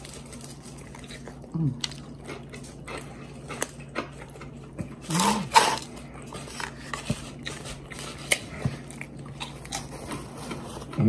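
Chewing and crunching of crisp double-fried hand-cut fries, a string of short sharp crunches, with a brief hummed vocal sound about five seconds in.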